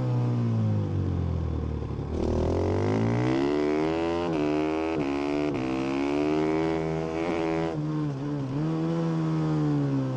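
Husqvarna FS450 supermoto's 450 cc single-cylinder four-stroke engine on track with its stock exhaust. It slows at first, then the throttle opens about two seconds in and it accelerates through several quick upshifts. Around eight seconds the throttle closes for a braking and downshift phase, and it accelerates again near the end.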